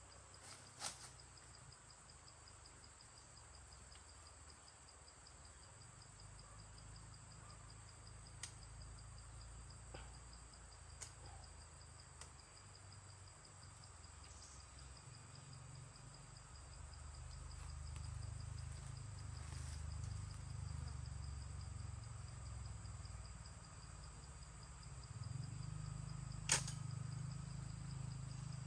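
Faint, steady insect chirring with a low rumble underneath and a few light clicks, then one sharp snap near the end: a shot from a handmade bird-hunting weapon, which misses.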